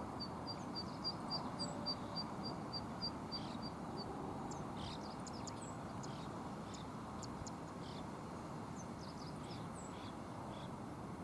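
Small bird giving a quick run of short, high, even notes, about four a second, that stops about four seconds in, followed by scattered high chirps from small birds, over the steady rush of river water.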